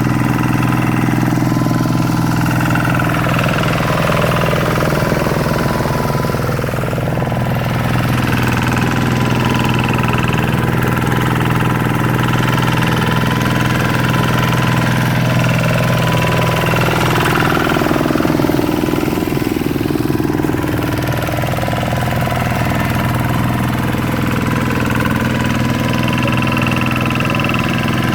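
Hand tractor's Kubota RV125-2 single-cylinder diesel engine running steadily.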